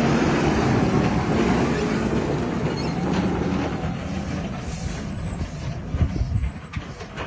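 JCB 4220 Fastrac tractor driving with a loaded bale chaser in tow: engine running under steady road and running noise. It grows quieter in the second half, with a few knocks near the end.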